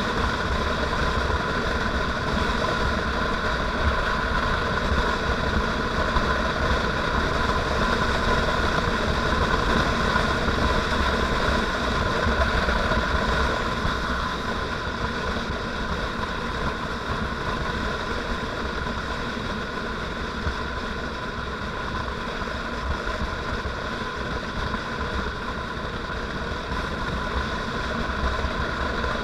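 Motorcycle engine running steadily while riding, with a continuous low rumble; it eases off slightly about halfway through.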